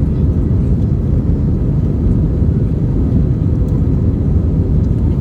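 Airbus A320 cabin noise during takeoff or initial climb: a steady, low, rumbling roar of the jet engines and airflow heard from a seat behind the wing.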